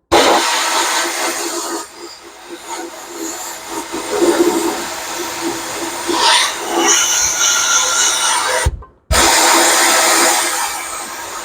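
Media blaster firing glass bead media at a rusty steel motorcycle floorboard, stripping it to bare metal: a loud, rushing hiss of compressed air and grit that starts abruptly, cuts out briefly about nine seconds in, and starts again.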